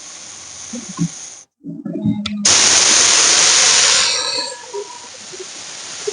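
A snake hissing: one loud, rough hiss of nearly two seconds that begins about two and a half seconds in and fades out, over a steady background hiss.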